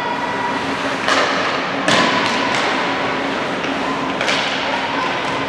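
Basketball game in a gym: several dull thuds of the ball and players on the hardwood court, irregularly spaced over a steady echoing hall background.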